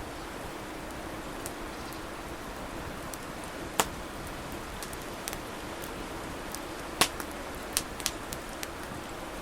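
Wood fire burning with a steady hiss and scattered sharp crackles and pops, the loudest about four and seven seconds in, with a quick cluster around eight seconds.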